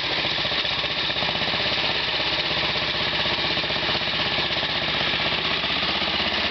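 1969 Sears Custom 10XL pulling tractor's engine running steadily, a fast, even, hammering firing rhythm with no change in speed.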